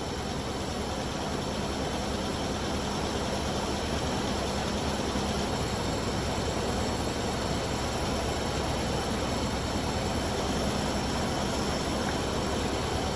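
1993 Ford Ranger engine idling steadily, left running to warm up through a heat cycle.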